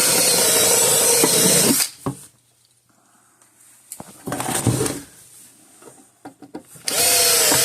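Electric drill drilling out the rivets on a fence charger's case, run in three bursts: a long one of nearly two seconds at the start, a short one about four seconds in, and another near the end.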